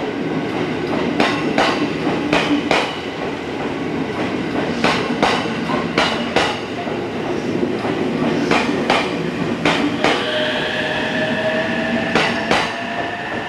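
A JR West 227 series "Red Wing" electric train rolling past the platform. Its wheels clack over the rail joints as pairs of sharp clicks, one pair after another. From about ten seconds in, a thin whine comes in and rises slightly in pitch.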